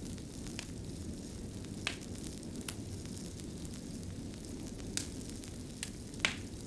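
Wood fire burning with a steady low hiss and scattered crackles and pops, a few louder pops about two, five and six seconds in.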